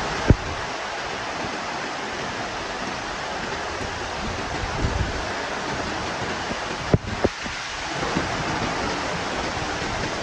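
Heavy rain and strong wind in a steady rush of noise, with wind buffeting the microphone. A short low thump comes just after the start, and two more come close together about seven seconds in.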